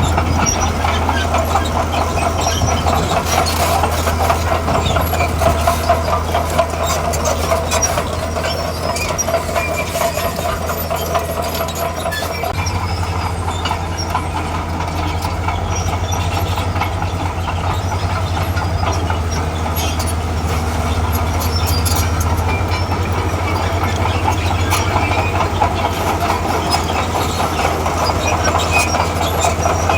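Diesel engine of a tracked earthmover running under load, with the clank and rattle of its steel tracks. The engine note steps up about twelve seconds in.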